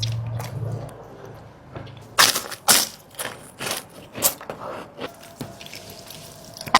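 Crunchy food being chewed close to the microphone: after about two seconds of quiet, a series of loud, crackly crunches.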